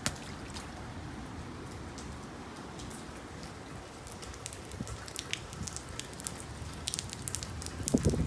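Rain falling in a storm, with a steady low rumble beneath and sharp drop ticks that come thicker in the second half. A louder low rush about eight seconds in.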